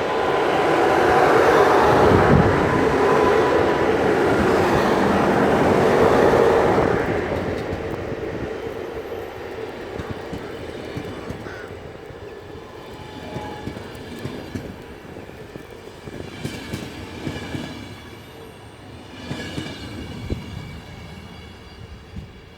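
A train passing: a loud rumble for the first several seconds that then fades steadily as it moves away. Clusters of wheel clacks over the rail joints come through in the fading part.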